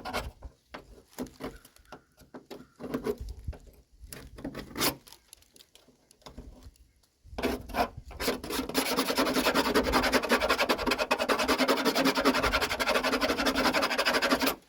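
Light handling knocks, then from about halfway through a steady, rapid rubbing and scraping that stops suddenly at the end.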